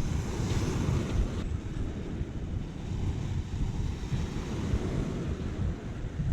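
Sea waves washing on the shore, with wind buffeting the microphone in a steady low rumble. The surf hiss is a little louder in the first second or so.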